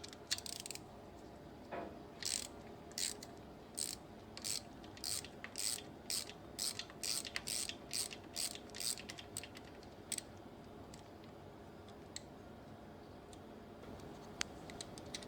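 Ratchet wrench clicking in quick strokes as it unscrews the small lock bolt that holds the cross pin in a Dana 44 rear differential. About fifteen strokes come over roughly eight seconds, then a few scattered clicks near the end.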